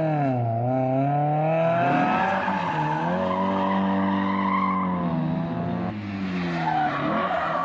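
Historic rally car's engine at high revs on a special stage, its pitch dipping and climbing back with quick throttle lifts and gear changes, then held high for a couple of seconds before dropping again near the end.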